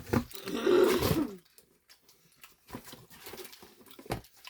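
A house cat meowing once, a held call of about a second, followed by faint rustling and light taps.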